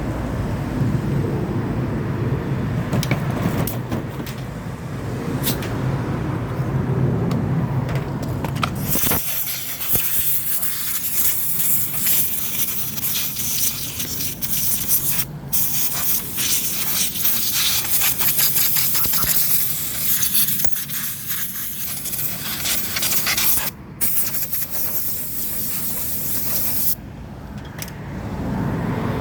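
A workshop machine's motor running with a steady hum, cutting off about nine seconds in. It is followed by a loud, spray-like hiss that stops briefly a few times.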